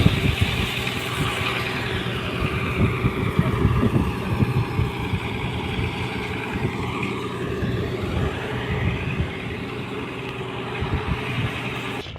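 Tugboat diesel engine running steadily: a constant low hum with a rushing hiss above it.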